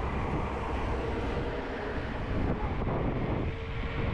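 Wind buffeting the camera microphone: a steady low rumbling noise.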